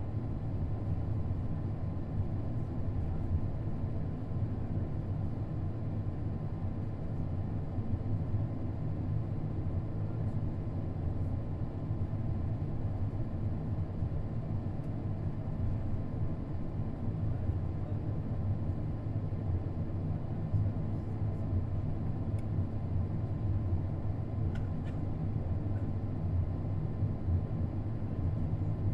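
Steady low rumble inside the cabin of an Airbus A220 with its Pratt & Whitney PW1500G engines running on the ground before takeoff, with a faint steady high tone over it.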